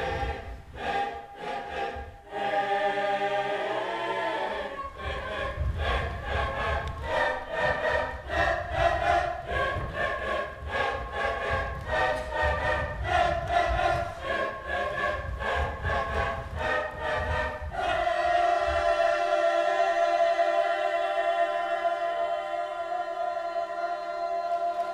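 A group of voices singing a cappella in close harmony, in short changing notes, then holding one long chord from about 18 seconds in.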